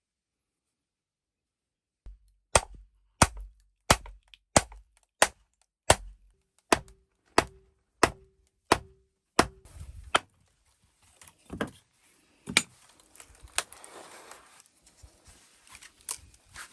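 A hand tool striking wood in steady, evenly spaced blows, about a dozen in a row at roughly three every two seconds, a few of them ringing briefly. They are followed by a few scattered knocks over low rustling.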